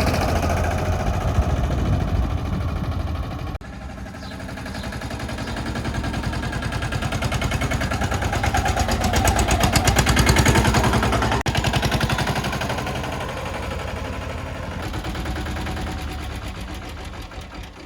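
Escort Steeltrac 15 mini tractor's engine running with a rapid, even knocking beat. It grows louder to about ten seconds in, then fades, with abrupt breaks about four and eleven seconds in.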